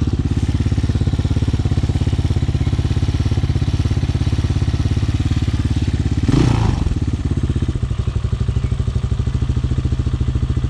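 Hawk 250cc dirt bike's single-cylinder engine idling fast, an idle that sounds a little high. About six seconds in there is a brief rev, and after it the engine settles to a quieter, lower idle.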